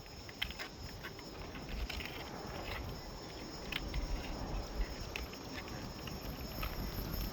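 Steady high-pitched insect chirring, with scattered light clicks and knocks and a low rumble underneath.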